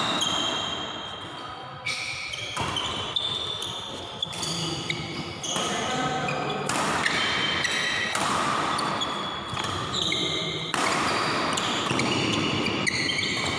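Badminton being played in a large sports hall: racket strikes on the shuttlecock and players' footwork on the court, with the hall's echo.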